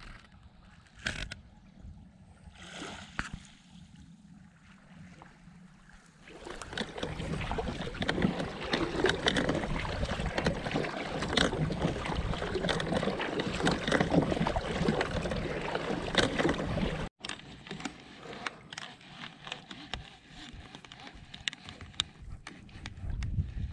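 Water splashing and lapping around a kayak, with many small knocks and clicks. It swells loud about six seconds in and drops off suddenly near seventeen seconds, then goes on more quietly.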